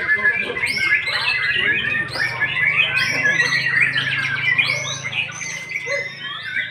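White-rumped shama (murai batu) singing a continuous, rapid, varied song of many short sweeping notes.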